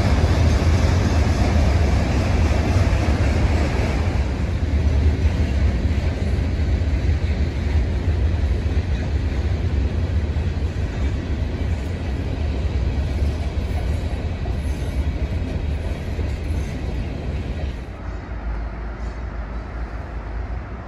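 Freight train of covered hopper cars rolling past, a steady low rumble of wheels on rail. About 18 seconds in the sound drops abruptly to a much quieter background.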